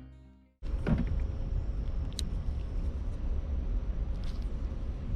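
Acoustic guitar music fades out within the first half second; then live outdoor sound with a steady low rumble and a few faint clicks.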